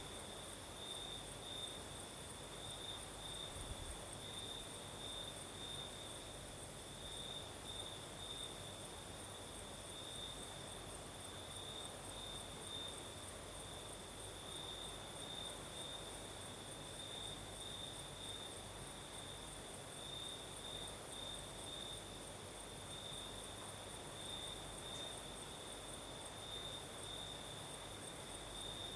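Crickets chirring steadily at night in a continuous pulsing trill, with a second, higher-pitched insect trill above it and a soft, even hiss beneath.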